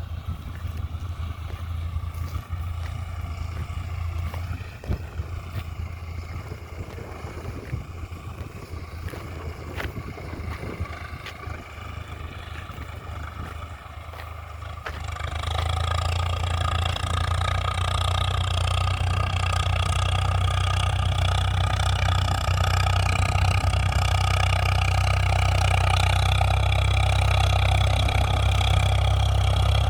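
Swaraj 855 FE tractor's diesel engine running steadily, growing louder about halfway through and staying louder.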